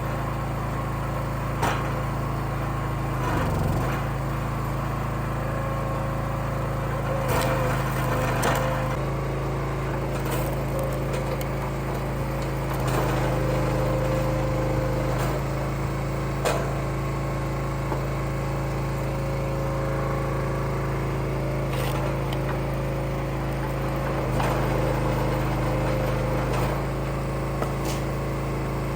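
Firewood splitter's engine running steadily, with occasional sharp knocks of wood and metal.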